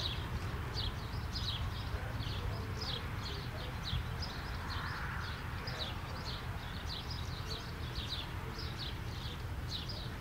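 Small birds chirping over and over, short high chirps at about three a second, over a steady low rumble.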